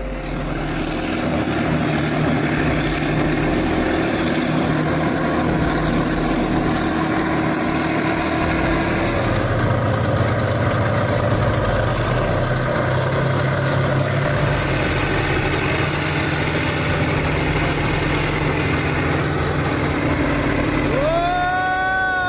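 Kirovets K-700 tractor's diesel engine running steadily under load, its pitch shifting about nine seconds in. Near the end a loud tone sweeps up in pitch and holds.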